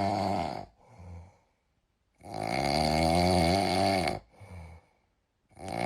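Loud, drawn-out snoring that repeats about every three seconds, each snore wavering in pitch and followed by a short, softer breath.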